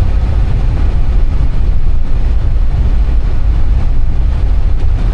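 Steady, loud, low rumble of an Airbus A320 cockpit's ambient noise, with no break or change.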